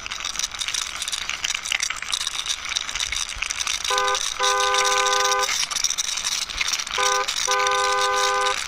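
Plastic toy truck rattling as it is rolled along by hand, with a horn sounding a short toot then a long one, twice: about four seconds in and again about seven seconds in.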